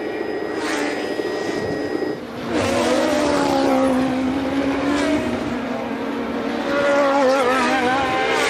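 Formula One race car engines running at racing speed, their pitch sliding and wavering as the cars work through the gears. The sound changes abruptly about two seconds in.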